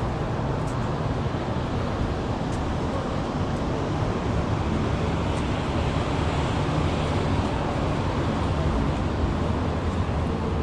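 Steady city street ambience: an unbroken rumble and hiss of road traffic, with a few faint ticks.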